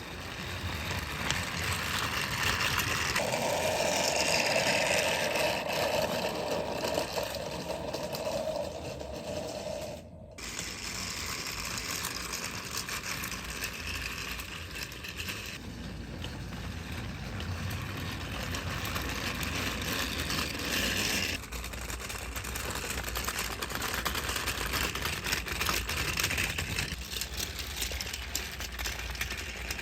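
Battery-powered motorized toy train running along its track: a steady small-motor whir with the wheels and coaches rattling, briefly breaking off about ten seconds in.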